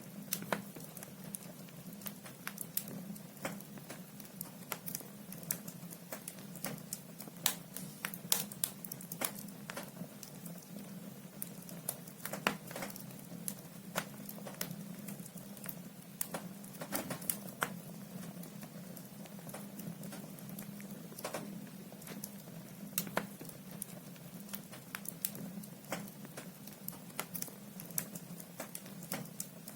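Firewood burning in a fireplace: irregular crackles and sharp snaps of the logs, at no even rhythm, over a steady low hum.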